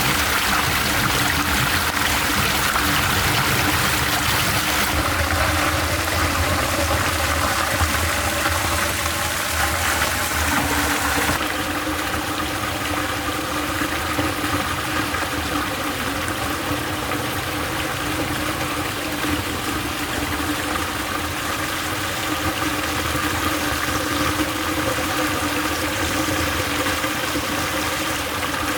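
Water flowing steadily through a miniature concrete dam model, over a steady machine-like hum. The sound shifts in character twice, about five and eleven seconds in.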